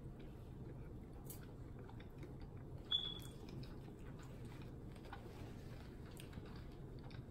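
Faint close-miked chewing and wet mouth clicks of someone eating saucy chicken wings, over a steady low hum. A short high squeak sounds about three seconds in.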